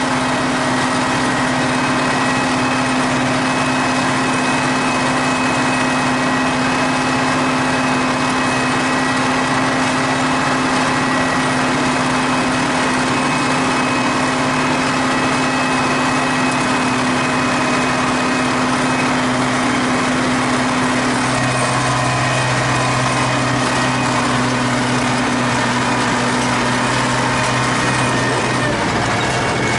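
T-150K tractor's diesel engine running steadily, heard from inside the cab, its note shifting about two-thirds of the way through.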